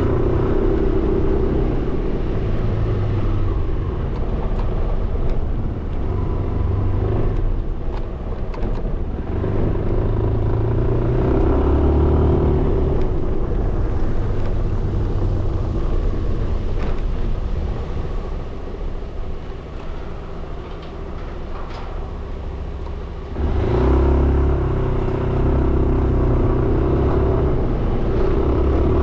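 Suzuki Burgman 400 scooter's single-cylinder engine running under way, with road and wind noise. The engine drops back for a few seconds, then picks up sharply about three-quarters of the way through as the throttle opens again.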